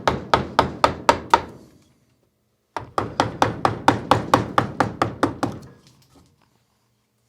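A mallet tapping a carving gouge into hard wood: two runs of quick, even taps, about four a second, with a short pause between.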